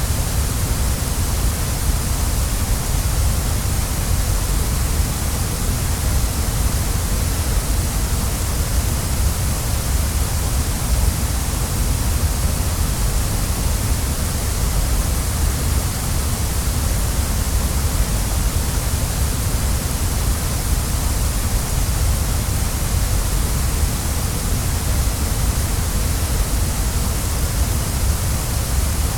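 Waterfall: a steady, unbroken rush of falling water, with a deep rumble underneath and a bright hiss on top.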